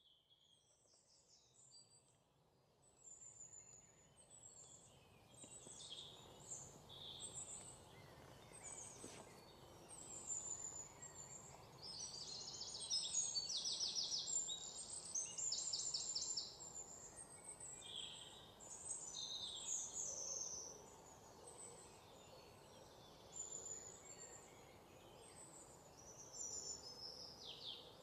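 Birds chirping and singing, with short high calls and rapid trills over a faint steady background hiss; it grows louder over the first few seconds and is busiest about halfway through.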